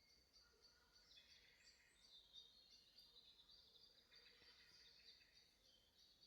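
Faint woodland birdsong: several birds singing at once in overlapping high chirps and trills.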